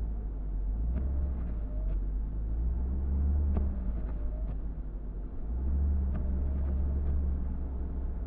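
A car driving, heard as a steady low rumble of engine and road. A group of faint clicks with a short rising-and-falling squeak comes back about every two and a half seconds.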